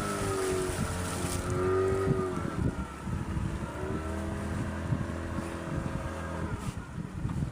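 Motorboat engine running while cruising on the river, its pitch wavering up and down, with wind noise on the microphone.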